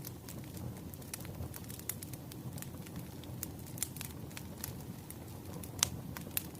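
Wood fire crackling: many irregular sharp pops and snaps over a low, steady rumble of flame, with one louder crack near the end.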